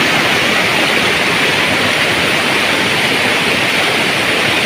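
Steady rush of heavy rain and running rainwater, even and unbroken.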